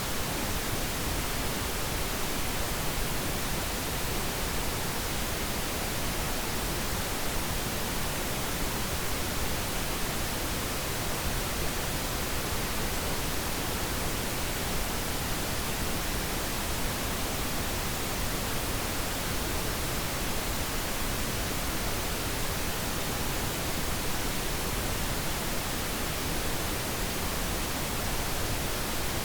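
Synthetic pink noise: an even, unbroken hiss that stays at a steady level throughout.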